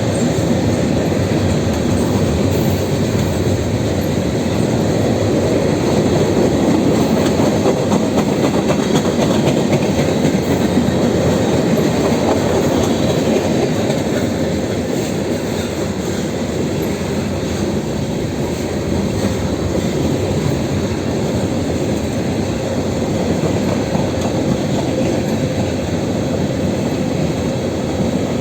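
A freight train's cars rolling past on the rails, with a steady noise of wheels on track that eases slightly about halfway through.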